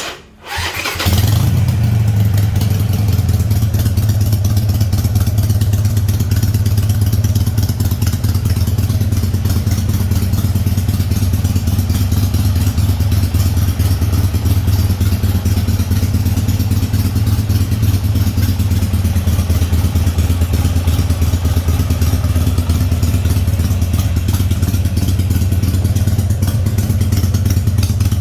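Harley-Davidson Sportster 883R's air-cooled V-twin with Screaming Eagle exhaust, started with a brief crank and catching about a second in, then running at a steady idle.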